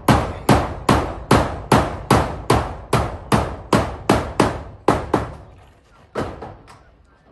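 Hammer driving nails with quick, even blows, about two and a half strokes a second. It breaks off about five seconds in, and two slower strikes follow.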